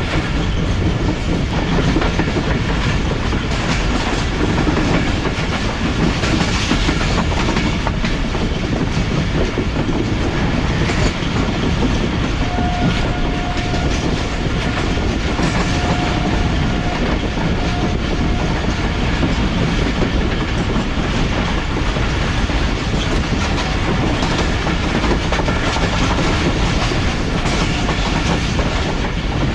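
Passenger train running at speed, its steel wheels clattering over the rail joints under a steady loud rumble.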